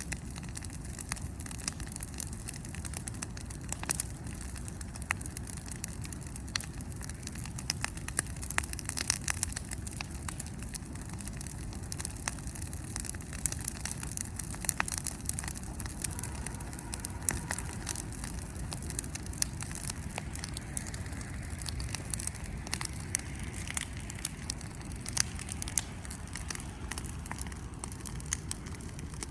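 Wood bonfire crackling, with frequent sharp pops at irregular intervals over a low steady rumble.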